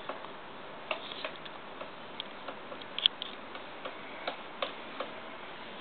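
Pileated woodpecker pecking at wood: a dozen or so sharp single taps at uneven intervals, not a rapid drumming roll.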